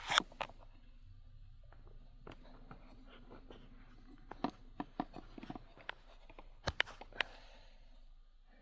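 Scattered light clicks and taps of hands handling a plastic RC transmitter and model, irregular, with a cluster about halfway through and a few sharper clicks near seven seconds.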